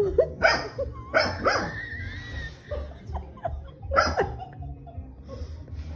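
A dog barking: several short barks in the first second and a half, and another about four seconds in.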